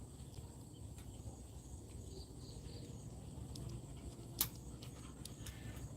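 Faint steady insect chirring with a low rumble underneath and a few scattered clicks, one sharper click about four seconds in.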